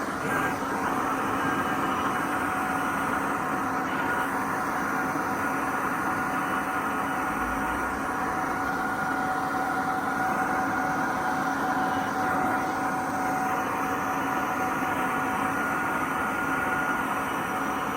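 A motor running steadily with a constant whine over a rushing noise, unchanged throughout.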